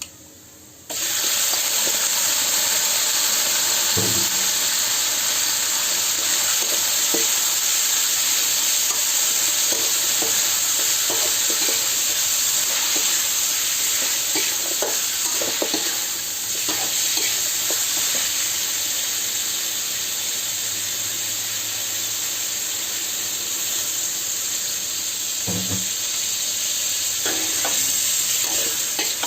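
Food dropped into hot oil about a second in, sizzling loudly and steadily in a frying pan while a spatula stirs it with scattered scrapes and knocks against the pan.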